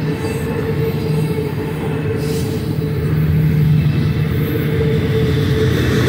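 Double-stack intermodal container well cars rolling past at close range: a steady rumble of steel wheels on rail with a continuous hum underneath, getting a little louder about halfway through.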